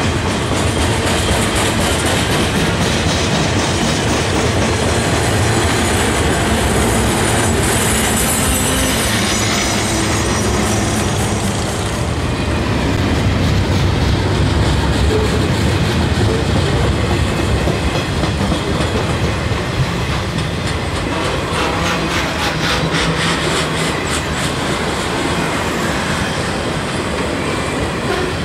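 Freight train cars (flatcars and autoracks) rolling past close by: a steady rumble of steel wheels on rail with repeated clickety-clack clicks. The sound changes about twelve seconds in.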